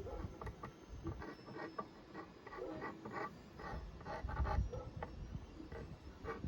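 Small irregular clicks, taps and rubbing of hands working with the hard 3D-printed plastic pieces of a helmet during gluing, with a dull bump about four and a half seconds in.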